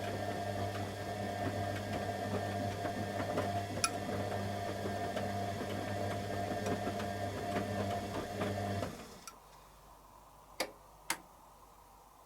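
Candy Aquamatic 100F washing machine in the heating stage of its wash, its motor turning the drum with a steady hum and light ticking. The motor stops about nine seconds in, and two clicks follow shortly after.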